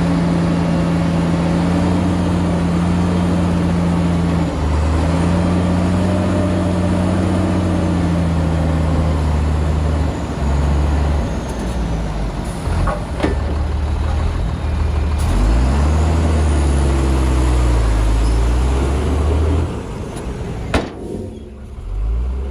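Heavy diesel engine of earthmoving machinery working under load. It runs steadily at first, then rises and falls in pitch from about ten seconds in, with a few sharp knocks. It eases off near the end.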